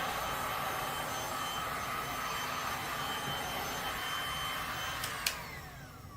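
Heat gun blowing steadily as it pushes the resin wave lines around; about five seconds in it is switched off with a click and its fan whine falls in pitch as it spins down.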